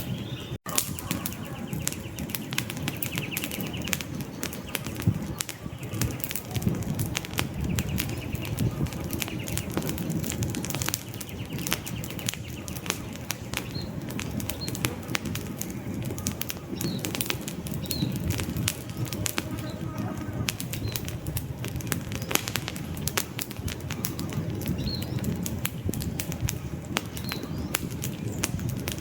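Campfire of burning logs crackling and popping irregularly over a low, fluttering rush of flame. Brief high bird chirps come in now and then from about halfway through.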